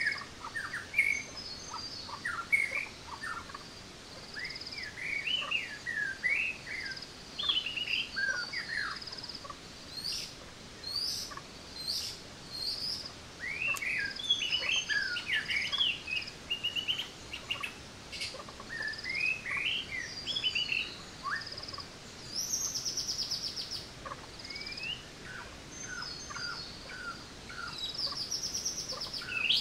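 Several forest birds singing together: many short chirps and quick whistled notes, with fast trills heard about two-thirds through and again near the end.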